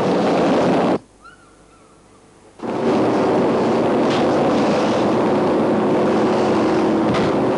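Car engines running hard with road noise in a car chase. About a second in the sound cuts to a quiet pause of about a second and a half with one faint chirp, then comes back at full level.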